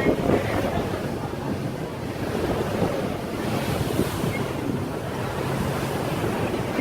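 Wind buffeting the microphone on a moving boat, over the steady rush of water and a faint low hum.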